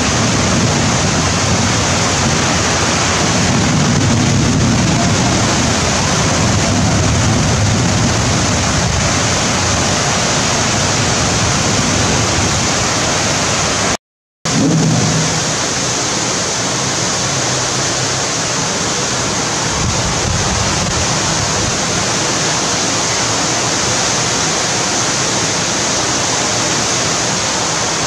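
Heavy rain pouring down in a steady, dense hiss, with wind gusting through it. The sound cuts out for a moment about halfway through.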